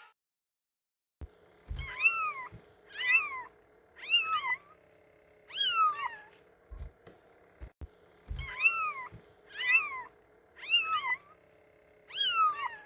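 Cat meowing repeatedly: eight short, high, rising-then-falling meows about a second apart, with a pause of about two seconds after the fourth.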